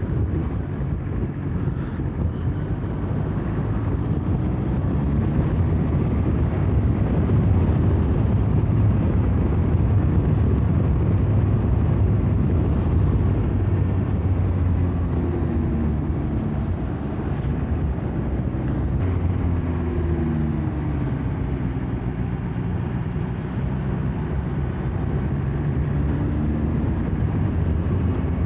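BMW S1000XR motorcycle's inline-four engine running steadily under way, its pitch rising and falling a few times in the second half as the revs change.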